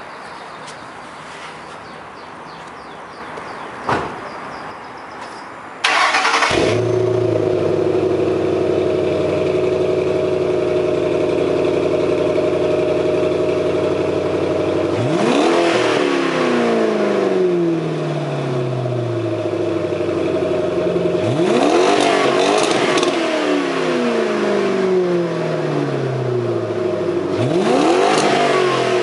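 2006 Ford Mustang GT's 4.6-litre V8, breathing through Gibson headers and a Borla ATAK exhaust, starts suddenly after a single click and settles into a steady idle. It is then revved three times, each rev climbing quickly and falling back to idle over a few seconds.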